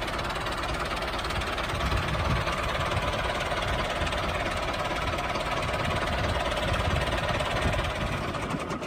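Small motor of a DIY mini tractor and thresher model running steadily.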